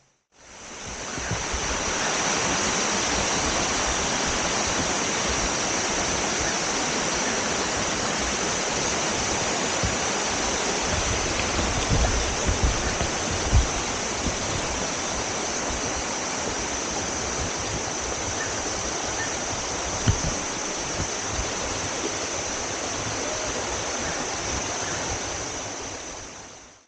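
Waterfall water rushing and splashing in a steady, unbroken wash of noise, with a few low bumps around the middle.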